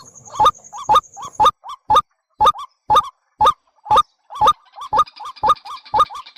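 Bird call played as a trapping lure: a short hoarse note repeated at an even two per second. A thin, steady high tone runs under the first second and a half, and a higher chattering joins near the end.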